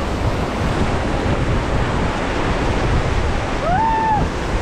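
Rushing whitewater of a river rapid around a raft, with wind buffeting the microphone. A short shout about four seconds in.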